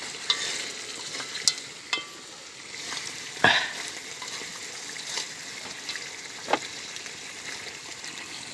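Squirrel meat frying and sizzling in a wok, stirred with a utensil that knocks and scrapes against the pan in a few sharp clinks, the loudest about three and a half seconds in.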